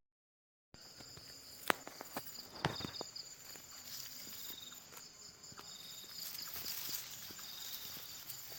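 Insects, crickets among them, chirping steadily in high continuous tones, with scattered footsteps and crackling rustles in dry grass or brush. The sound begins after a brief dead silence.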